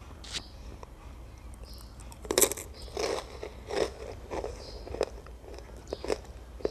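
Crunchy breadstick dipped in Nutella and rolled in chocolate chips being bitten and chewed: a first bite, the loudest crunches about two seconds in, then steady crunching chews about every two-thirds of a second.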